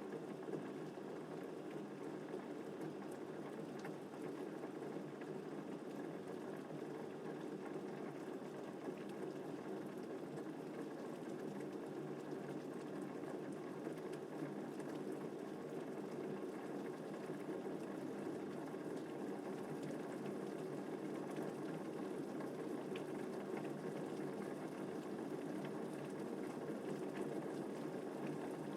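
Steady rain falling, an even low hiss with faint scattered drop ticks.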